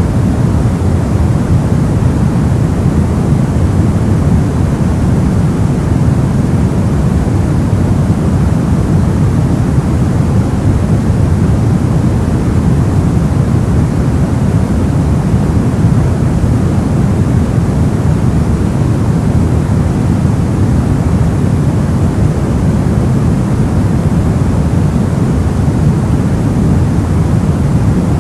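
Soft white noise: a steady, unchanging hiss, deep and muffled, with most of its weight in the low end.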